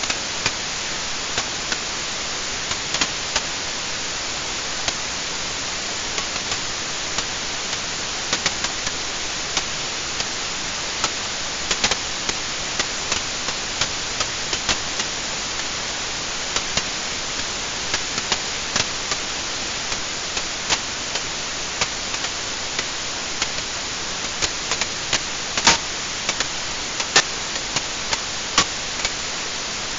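Wood fire burning in a fireplace: a steady hiss with irregular sharp crackles and pops, a few of them louder near the end.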